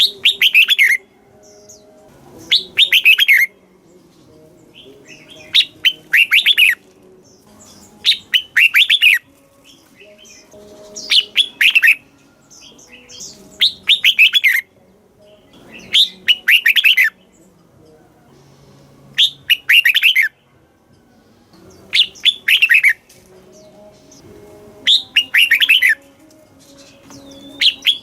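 Red-whiskered bulbul singing: a short phrase of quick, clear falling notes, repeated about every two and a half to three seconds, around ten times.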